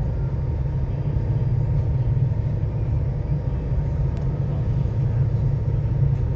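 Steady low rumble of a car ferry's engines under way, heard from aboard the vessel, with a faint steady hum on top.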